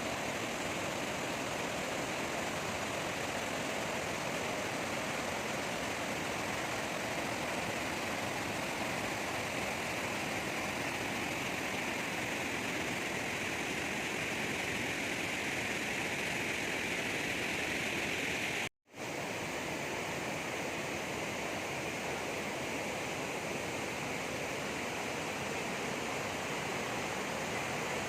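Steady rushing roar of Vazhachal Falls on the Chalakudy river, water pouring over the rocks, cut off for an instant about two-thirds of the way through before it carries on.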